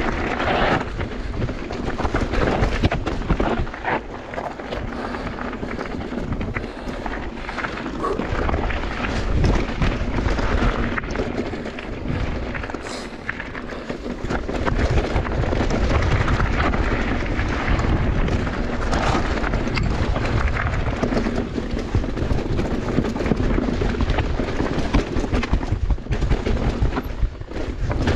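Mountain bike riding down a dirt trail: continuous rumble of tyres over dirt and rocks, with many knocks and rattles from the bike, and wind buffeting the microphone.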